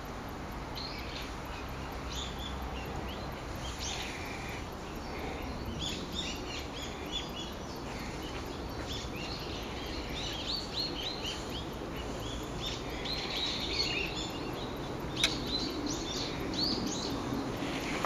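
Several small woodland songbirds chirping and trilling, many short high calls overlapping, over a steady low background rumble. A single sharp click comes near the end.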